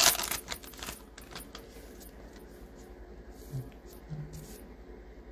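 Trading-card pack wrapper crinkling as it is ripped open, loudest in the first second, then fading to a few light clicks and rustles of the cards being handled.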